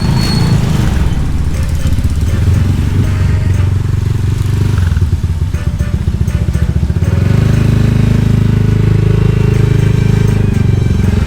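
Motorcycle engine running at low road speed, heard close up from the bike, its note settling into a smoother, steadier run about seven seconds in.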